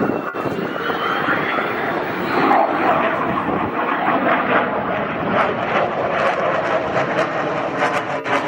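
F-22 Raptor's twin turbofan engines, a loud, continuous jet noise from the fighter as it performs its demonstration.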